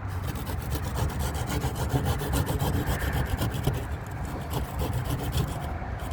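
A hand tool working timber, rubbing and rasping steadily against the wood with a dense, rapid scratchy texture.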